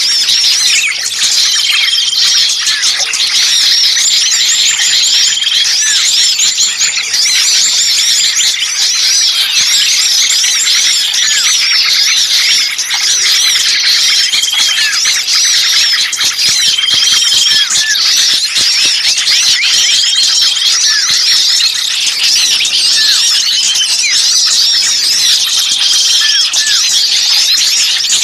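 A dense, noisy chorus of small songbirds chirping and squeaking over one another, with a short flat whistle recurring every few seconds. It is a bird-lure recording of agitated 'pinched' distress calls, played to draw other birds in.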